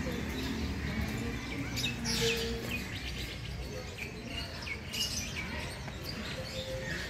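Small birds chirping: scattered short, quickly falling chirps, with a cluster about two seconds in and another near five seconds, over a low background rumble.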